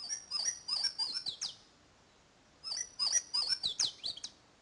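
Louisiana Waterthrush singing twice, each song about a second and a half long: a run of loud, slurred, downward whistled phrases that end in a quick jumble and a sharp falling note.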